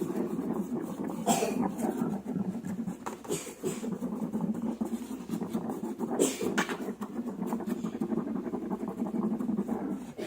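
Slime being squeezed and worked by hand: continuous wet squelching and crackling, with a few sharper pops of trapped air.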